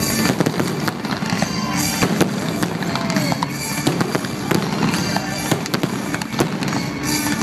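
Fireworks display with many bangs and crackles in quick succession, over loud music.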